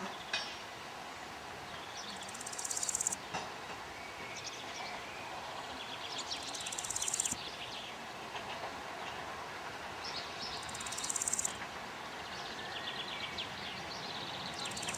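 An insect stridulating in repeated high, ticking buzzes, each swelling for about a second and then cutting off, roughly every four seconds. Birds sing in the background.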